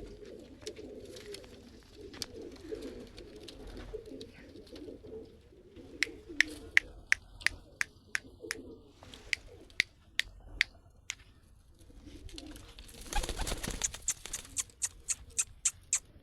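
Pigeons cooing in low, murmuring coos, joined from about six seconds in by a series of sharp clicks. A short burst of noise comes near the end, followed by more quick clicks.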